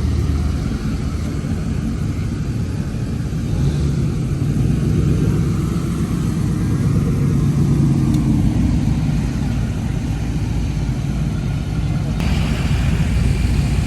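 A motor vehicle's engine running with a steady low rumble, its pitch rising and falling a little in the middle as it is manoeuvred at low speed; the sound changes abruptly about twelve seconds in.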